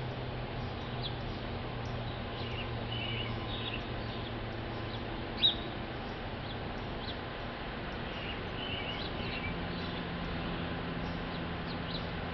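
Small birds chirping sporadically, short high notes with a couple of brief call phrases, over a steady outdoor hiss and low hum. One short, much louder sound stands out about five and a half seconds in.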